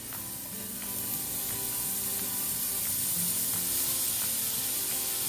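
Hot oil sizzling in an aluminium pan as shredded cooked chicken is tipped onto sautéed onion and garlic; a steady frying hiss that grows louder about a second in.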